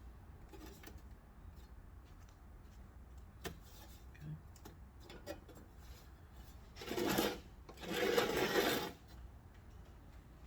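Metal parts being handled, with a few light knocks and then two short bursts of scraping about seven seconds in, like a steel angle frame sliding against a sheet-metal box as it is fitted.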